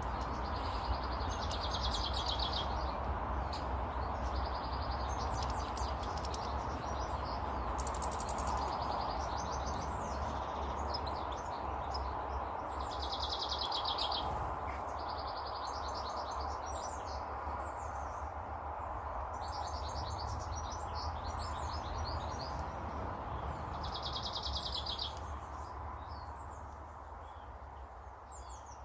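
Garden songbirds singing: short trilled phrases of about a second, repeated every few seconds, over a steady background hiss and low rumble that fade near the end.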